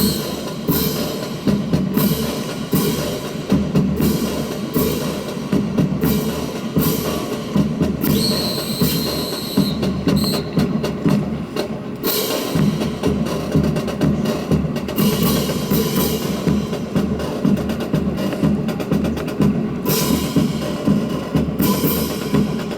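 A steady percussion beat of drum hits and sharp, wood-block-like knocks, keeping time for a rifle drill team's routine.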